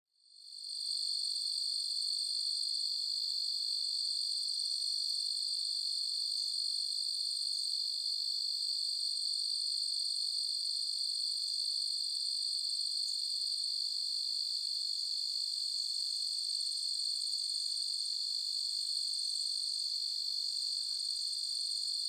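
Crickets in a steady, unbroken high-pitched trill, fading in over the first second.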